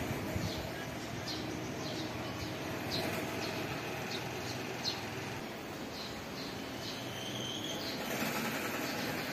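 A bird chirping short high notes over and over, about twice a second, over a steady background noise.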